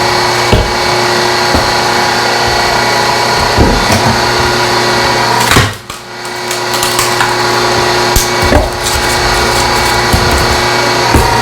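Electric hydraulic log splitter running with a steady motor hum while its wedge forces through a log, with sharp cracks and knocks of splitting wood, the loudest about halfway through.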